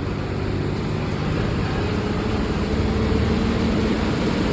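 KSRTC bus's diesel engine running, its note rising slightly about two seconds in.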